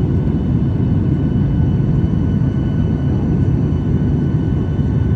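Steady low rumble of an airliner's engines and airflow heard from inside the passenger cabin, with a few faint steady higher tones over it.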